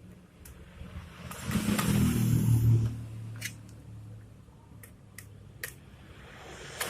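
Scattered small sharp clicks and handling noise, from fan cable connectors being fitted to a 3D printer mainboard, with a louder stretch of handling noise about one and a half seconds in.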